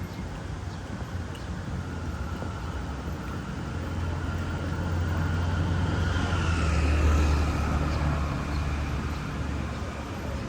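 A road vehicle passing close by: a low rumble builds to a peak about seven seconds in and then fades, with a whine that falls in pitch as it goes by.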